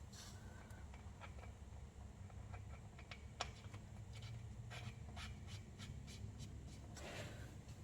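Faint scattered clicks and light taps of hand tools and small engine parts being handled, coming quicker for a second or so past the middle.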